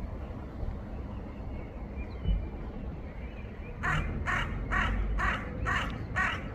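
A crow cawing six times in quick succession, about two and a half calls a second, starting a little past halfway through, over a low rumble in the background.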